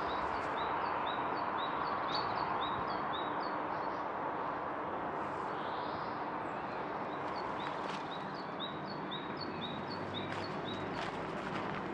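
A songbird singing evenly repeated short, high two-part notes, about three a second, in two runs with a pause between, over a steady background hiss. Footsteps start again near the end.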